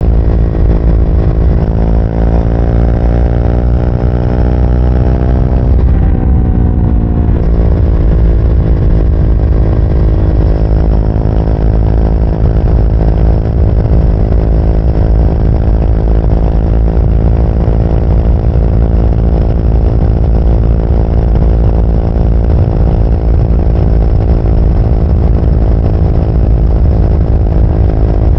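Triumph Speed 400's single-cylinder engine under way: the revs climb for about six seconds, fall sharply, then the engine runs at a steady speed for the rest of the time.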